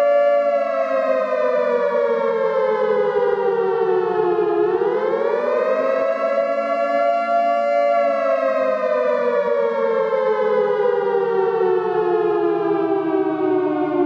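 Civil-defence air-raid siren wailing. Its pitch holds, falls over about four seconds, then swings back up about five seconds in. It holds again for a couple of seconds, then falls slowly toward the end.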